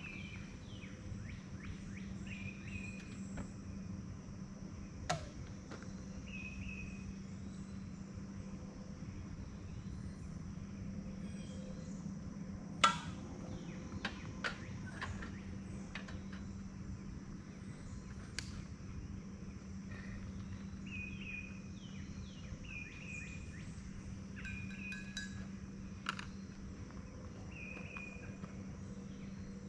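Outdoor evening ambience: a steady insect drone with short chirps repeating every couple of seconds, over a steady low hum. A few sharp pops and clicks come through, the loudest about 13 seconds in.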